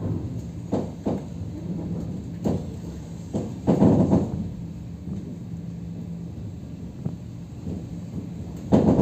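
Inside a moving suburban electric train: a steady rumble and hum of the running gear, broken by sharp clunks and a heavier clattering burst about four seconds in and again near the end, as the wheels run over rail joints and points.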